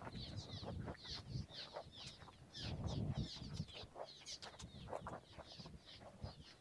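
A chorus of many birds calling together: a busy, overlapping run of short, high, falling chirps, several a second, over a low rumble.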